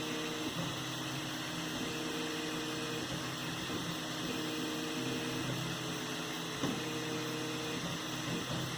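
3D printer running: its stepper motors whine in steady tones that change pitch every second or so as the moves change, over a steady fan hiss, with one short click about two-thirds of the way in.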